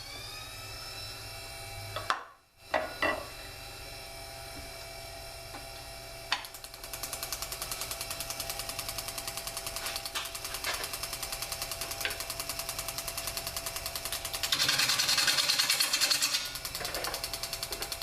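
Jet 1221 variable-speed mini wood lathe: its motor whines up to speed, stops briefly with a couple of knocks, then runs while a bowl gouge cuts a dry hard maple bowl blank. The cut comes as a fast, even chatter, heavier and louder for a couple of seconds near the end.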